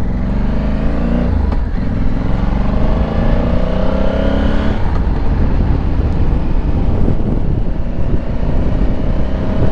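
Honda Africa Twin's parallel-twin engine pulling through the gears under way: its pitch rises, dips at a shift about a second and a half in, rises again until nearly five seconds in, then drops and runs steadier, over a dense low rumble of wind and road noise.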